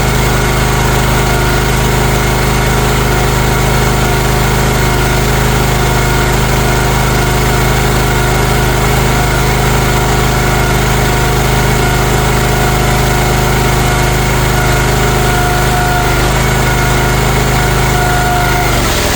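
CFG MX15RX mini excavator engine idling steadily, warming up after a cold start.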